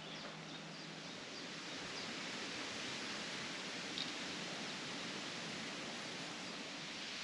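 Steady wind noise, a little louder about two seconds in, with a few faint high bird chirps early on and once more around the middle.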